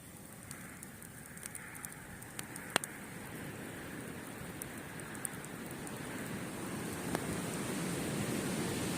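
Wood campfire crackling with scattered sharp pops, the loudest a little under three seconds in, over the wash of sea waves, a wave swelling louder toward the end.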